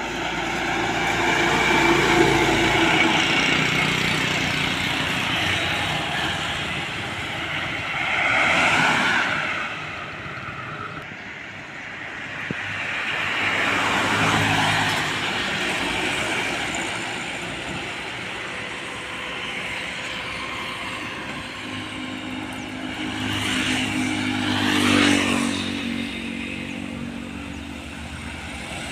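Road traffic: trucks and other vehicles passing one after another, each pass swelling and fading, with engine hum underneath.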